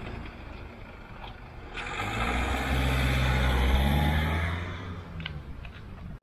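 Nissan Qashqai pulling away from the kerb, with road noise. Its engine gets louder about two seconds in, rises a little in pitch as it accelerates, then fades as it drives off. The sound cuts off suddenly at the end.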